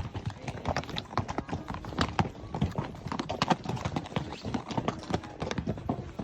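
Hoofbeats of a Tennessee Walking Horse, a quick, irregular run of clip-clops.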